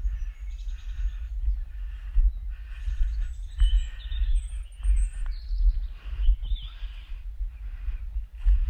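Small songbirds chirping and trilling in forest, over an uneven low rumble of wind buffeting the microphone, which is the loudest sound.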